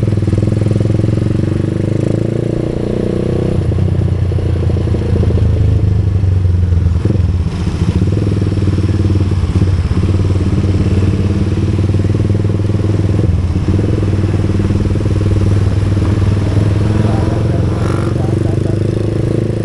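A vehicle engine running steadily while on the move, its pitch shifting slightly about three and a half seconds in.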